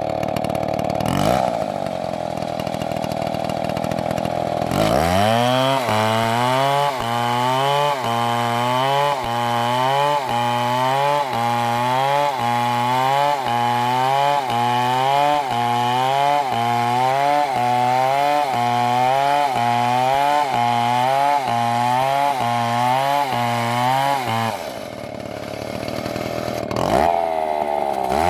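MS720 chainsaw running at high speed, then from about five seconds in its engine note dips and recovers about once a second as it works through the wood, a rhythmic rise and fall. Near the end it goes back to a high, steady whine for a moment.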